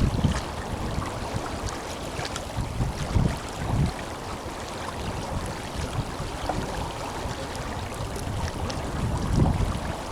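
The Tenryū River flowing strongly, a steady rush of water. Now and then a short low gust of wind buffets the microphone.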